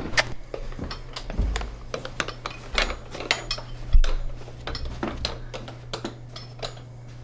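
Tools and small metal hardware being handled: a scatter of light clinks and knocks, with one heavier knock about four seconds in, over a steady low hum.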